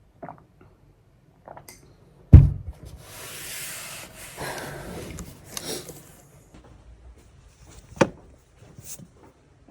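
A heavy thump, then a few seconds of rustling hiss, and a sharp knock near the end.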